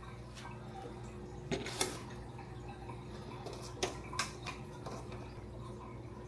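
Aquarium water trickling over a steady low hum of tank equipment, broken by four short sharp knocks or splashes: two about a second and a half in and two around four seconds in.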